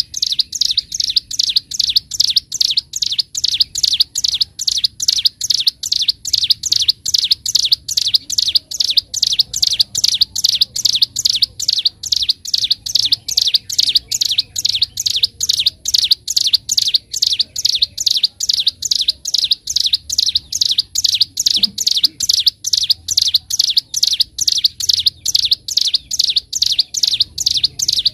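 Ciblek gunung, a prinia, singing a continuous run of rapid, sharp, high chirps, about three to four a second, in an even unbroken stream: the fast drilling 'ngebren' style of song.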